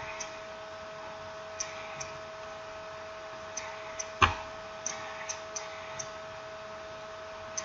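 Scattered light clicks and taps of small phone parts and tools being handled during a smartphone reassembly, with one louder knock about four seconds in, over a steady electrical hum.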